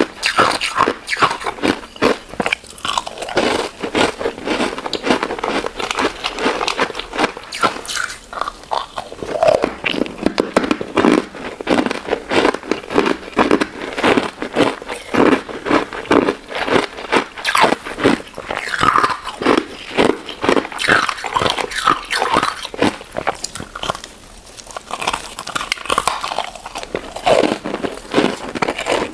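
Close-miked chewing and biting of a crunchy crystal ice dessert with jelly: a dense run of crisp crunches, several a second, with short pauses between mouthfuls.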